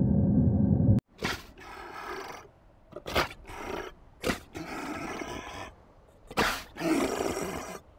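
A loud steady low rumble cuts off about a second in, followed by an animal calling repeatedly: a series of short calls and longer drawn-out ones, several in a row with brief gaps.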